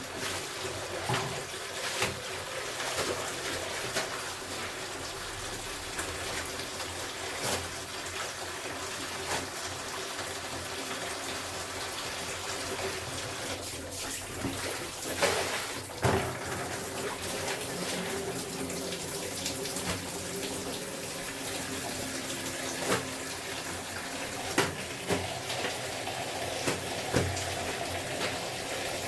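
Water running steadily from a tap, with a few sharp knocks scattered through.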